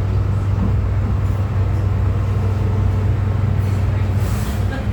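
MTR M-Train electric multiple unit running, heard from inside the car: a steady low hum of traction motors over wheel and track rumble. A short hiss comes near the end.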